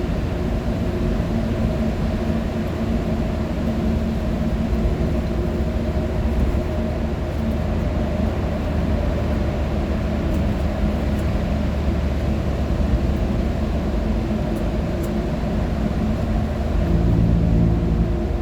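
A motor vehicle driving, with steady engine hum and road noise; a deeper engine note comes in near the end.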